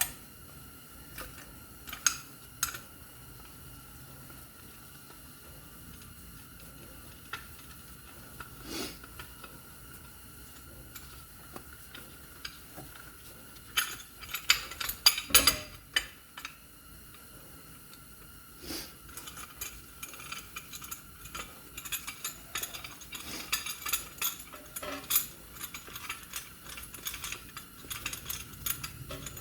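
Metal hand tools and brake parts clinking and knocking as they are handled, with a few sharp knocks in the middle and a dense run of quick clicks and clinks in the second half.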